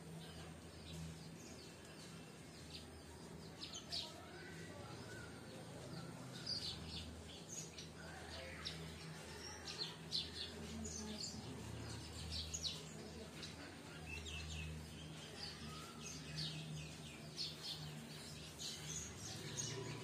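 Small birds chirping in irregular clusters of short, high chirps, over a faint steady low hum.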